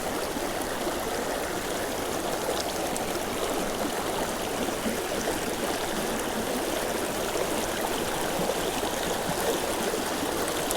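Shallow mountain creek running over rapids: a steady, even rush of water.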